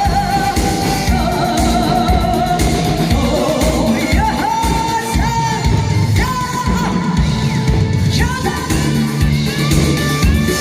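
A singer holding long, wavering sung notes over an upbeat pop backing track with drums.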